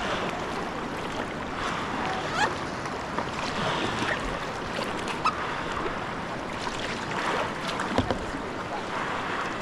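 River whitewater rushing around a kayak, with splashes swelling every second or two and a few sharp knocks against the boat.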